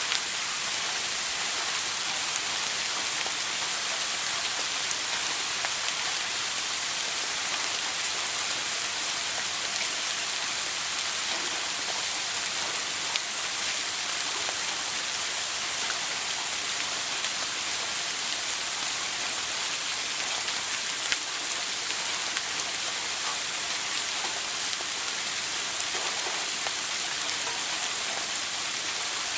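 Running shower water spraying and splashing in a steady hiss, with faint scattered droplet ticks.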